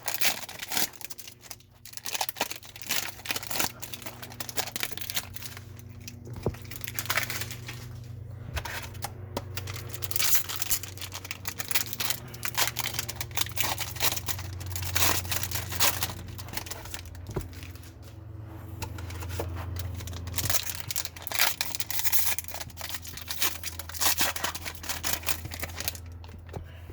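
Trading card pack wrappers being torn open and crinkled, with an irregular run of crackling rips and rustles over a steady low hum.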